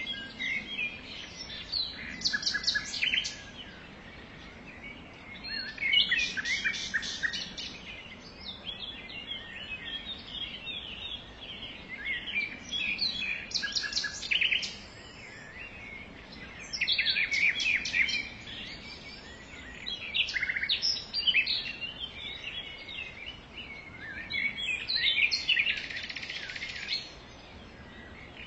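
Songbirds chirping and singing, with bursts of rapid chirps every few seconds over a faint steady background.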